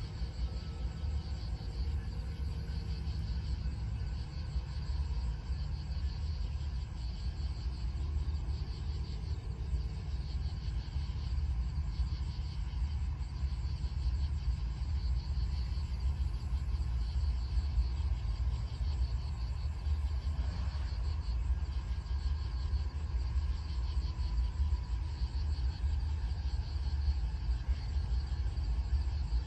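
Low, steady rumble of an approaching GE ES44C4 diesel locomotive and its stack train, slowly growing louder, with crickets chirping faintly and steadily.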